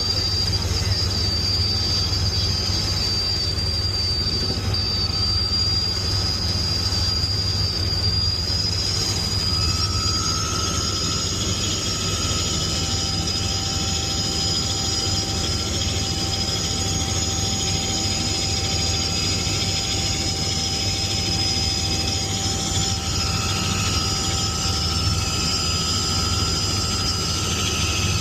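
Helicopter running steadily in flight: a constant low drone with several high, steady whines over it.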